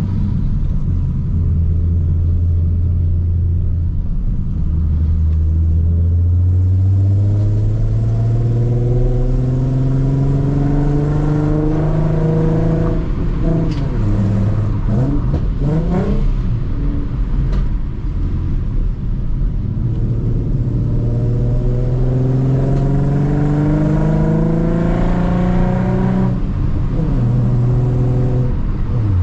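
Ford Mustang RTR V6 engine with a Roush exhaust, driven with a six-speed manual. It pulls in two long climbs in revs, with a few quick drops and rises in revs around the middle and a drop near the end.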